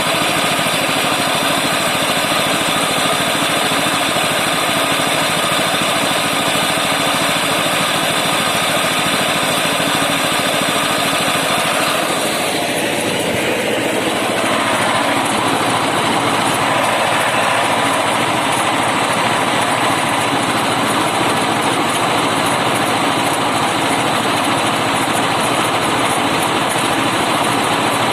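Snow blower's small petrol engine running steadily, with a brief change in its sound about twelve seconds in before it settles again.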